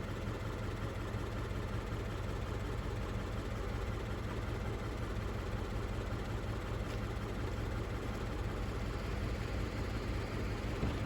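Toyota 86 engine idling steadily, with an even low note and no revving.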